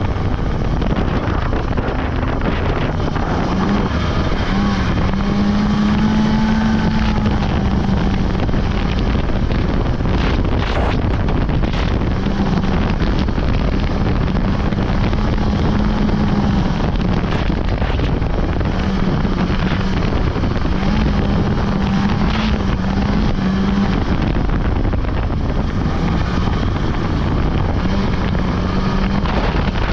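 Polaris 600 two-stroke snowmobile engine running under way, its note rising and falling with the throttle and easing off a few times, under heavy wind noise on the microphone.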